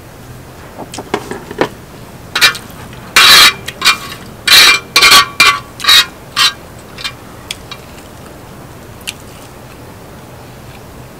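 Close-miked eating sounds of stir-fried ramen noodles: a run of short, loud slurps from about three to six seconds in, with a few quieter mouth clicks before and after.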